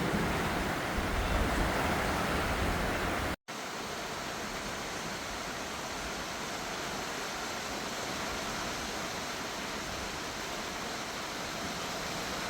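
Heavy rain falling, a steady dense hiss. It breaks off for an instant about three and a half seconds in, then carries on with less low rumble underneath.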